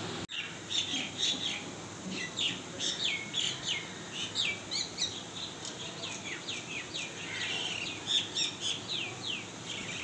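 Songbirds chirping in a tree: a quick run of short, high notes, each sliding downward, about two or three a second, with a brief cut-out just after the start.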